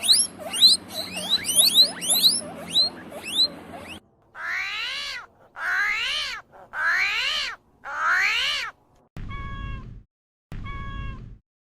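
A run of rapid high chirps, then a cat meowing four times in long calls that rise and fall in pitch. Near the end, two short, even-pitched calls from another animal.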